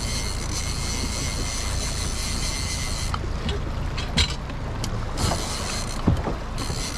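Suzuki DF60A four-stroke outboard running steadily at trolling speed, a low even hum, with a high hiss that stops about three seconds in and a few sharp knocks in the second half.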